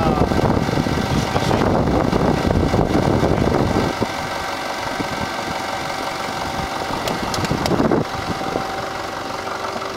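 Nissan 4x4 SUV's engine running at low speed as it crawls down a rocky slope. A heavy rumble fills the first four seconds, then the engine sound turns quieter and steadier, with a brief rise just before eight seconds in.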